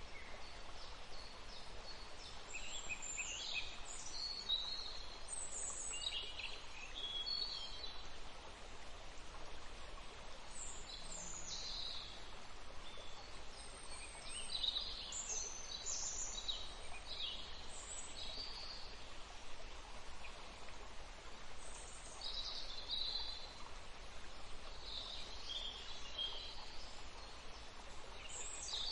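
Several small birds chirping and singing in short, scattered phrases over a soft, steady rushing background.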